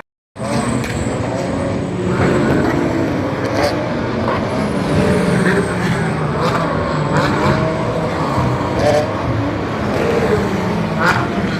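GT racing car engines running, with a steady wash of engine and crowd sound, several voices mixed in, and a few sharp clicks.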